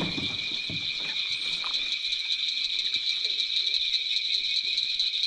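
Steady chorus of night insects: a continuous high, shrill drone at two pitches, with a few faint low knocks underneath.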